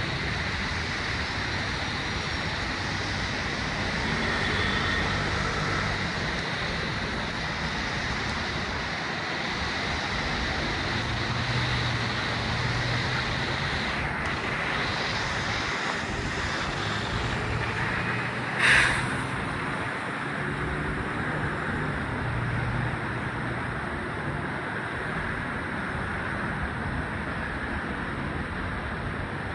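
City road traffic in the rain: a steady hiss of tyres on a wet road with engines running. A single brief, loud sharp sound stands out about two-thirds of the way through.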